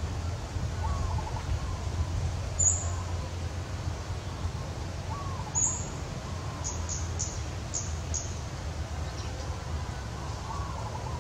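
Birds chirping: a few short high chirps, then a quick run of five in the middle, with fainter calls repeating every few seconds, over a steady low rumble.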